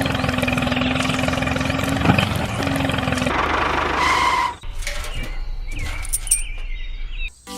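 A small motor of a homemade mini tractor running with a steady whirring hum for about three seconds. The sound then changes, and after a sharp drop at about four and a half seconds it becomes quieter, with faint whines that rise and fall.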